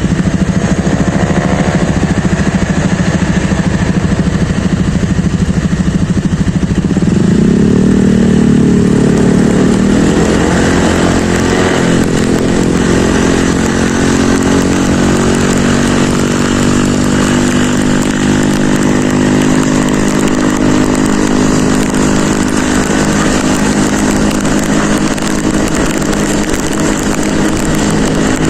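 Motorcycle engine running while riding, rising in pitch as the bike speeds up about seven seconds in, then holding a steady higher note, over a constant rushing hiss.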